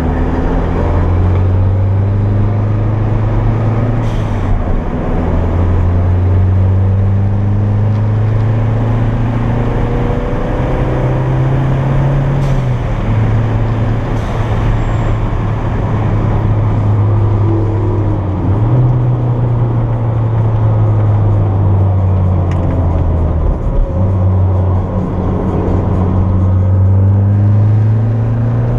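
Turbocharged Toyota MR2 engine pulling hard on track, heard from inside the cabin. The engine note climbs steadily with the revs and jumps abruptly in pitch a few times at gear changes.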